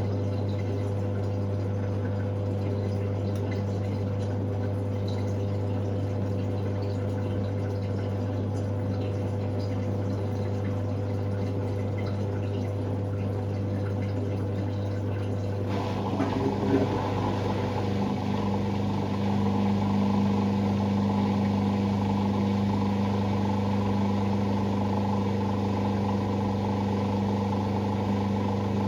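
Hoover Sportswear 1300 AI130 washing machine running mid-cycle: a steady pump hum with water moving, then about halfway through a motor cuts in with a sudden change, and the machine gets louder a few seconds later.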